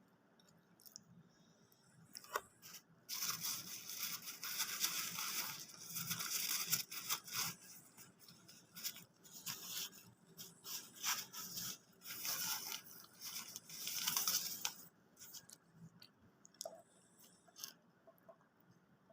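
Close-miked crinkling and crunching in irregular bursts, loudest from about three seconds in to about fifteen seconds in, then only a few scattered ticks.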